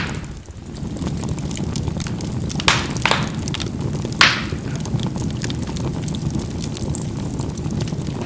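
Charcoal burning in a fireplace: a steady low rumble of flame with fine crackling throughout, and three louder sharp pops as the coals burst, about three to four seconds in. The fire sound dips briefly just after the start.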